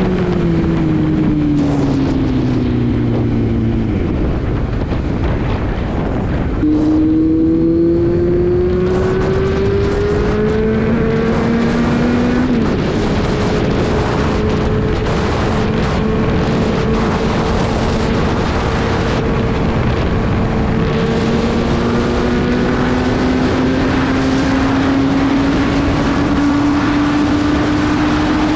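Kawasaki Z900's inline-four engine running through a loud short-can aftermarket exhaust while the bike is ridden. The engine note falls over the first few seconds, climbs under acceleration from about seven seconds in, drops with a gear change about twelve seconds in, then rises slowly. Wind rushes steadily throughout.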